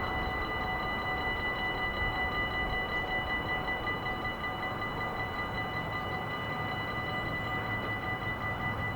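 Dutch level-crossing warning bell ringing continuously in rapid strokes, with steady high ringing tones over a low background rumble.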